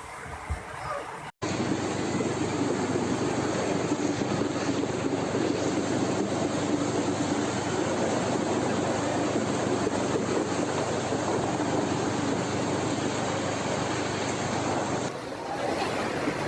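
Steady rush of an overflowing river in flood. It cuts in suddenly about a second and a half in and dips briefly near the end.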